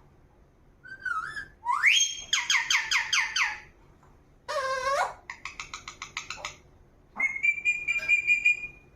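Pet parrot whistling and calling: a short note, a rising whistle that breaks into a fast run of repeated notes, a harsh squawk, a rapid chatter, and near the end one long held whistle.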